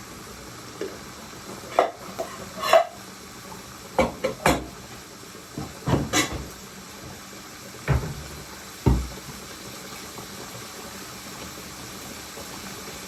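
Bowls and crockery clinking and knocking as they are taken out and set down, a string of separate knocks over the first nine seconds, ending with two duller thuds around eight and nine seconds in.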